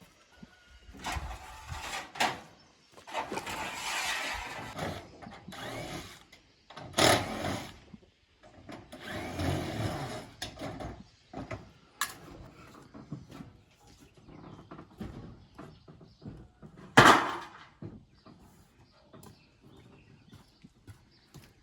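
Hand and power tool work: irregular bursts of tool noise, each a second or two long, with pauses between them and one sharp, loud knock about two thirds of the way through.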